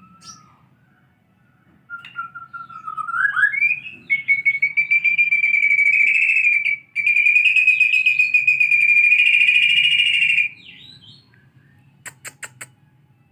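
White-rumped shama singing a canary-style song: a few rising whistled notes, then a long, fast rolling trill with one short break. Four sharp clicks come near the end.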